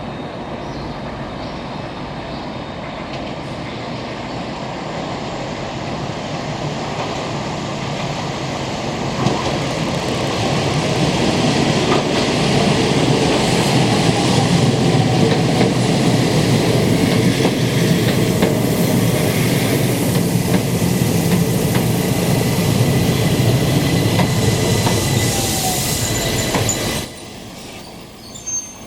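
Keihan Keishin Line electric train running on the rails, its noise growing louder about ten seconds in and staying loud, then cutting off suddenly near the end.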